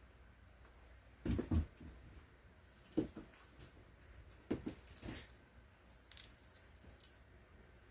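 A few scattered knocks and clicks against a quiet background, the loudest pair about a second and a half in, with single ones near three and four and a half seconds and a lighter run of clicks near six seconds.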